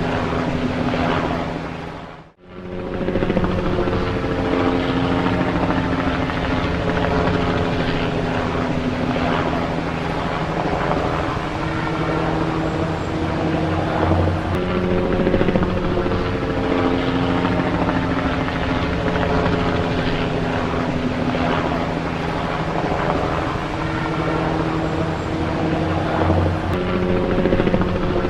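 Helicopter running with a steady drone of held engine tones and rotor noise; the sound dips out for a moment about two seconds in, then resumes.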